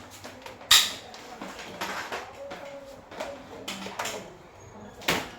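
Irregular knocks and clatter of hard parts and tools being handled, with a sharp loud knock about 0.7 s in and another near the end.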